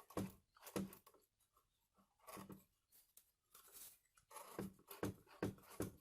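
Light clicks and taps of hands and an oil can working on a partly disassembled belt sander's bearing, scattered at first and coming quicker near the end.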